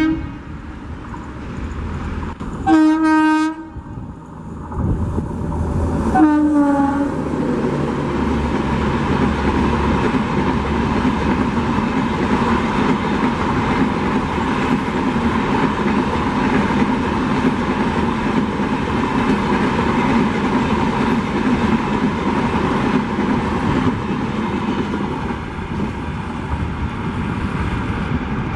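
Indian Railways WAP7 electric locomotive sounding its horn in two short blasts, about 3 and 6 seconds in, the second dropping in pitch as it ends. Then the Humsafar Express runs past at speed: a steady loud rumble and clatter of the coaches on the rails for the rest.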